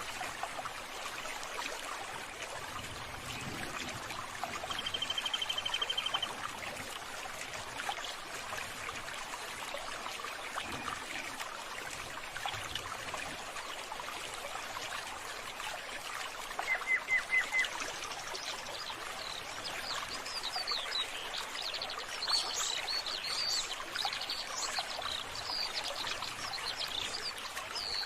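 Running water flowing steadily, with birds calling over it: a fast trill about five seconds in, three quick notes past the middle, then many high chirps through the last third.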